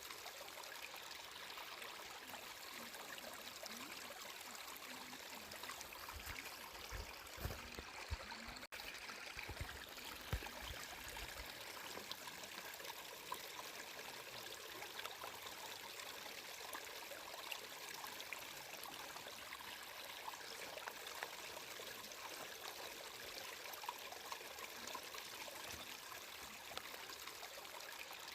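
Flowing water: a small stream running and trickling steadily, with many small splashy ticks and a few soft low bumps about a third of the way in.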